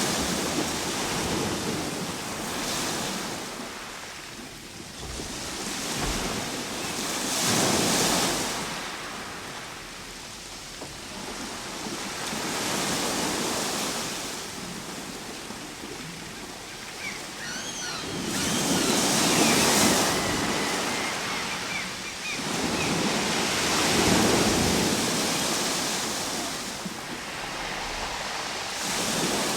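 Ocean waves surging and washing in, swelling and fading in turn every four to six seconds.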